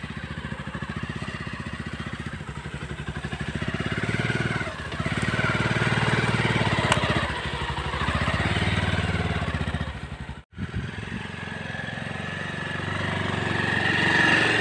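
Motorcycle engine running as the bike is ridden, a fast steady firing that grows louder about four seconds in and again near the end, broken by a brief cut-out about ten and a half seconds in.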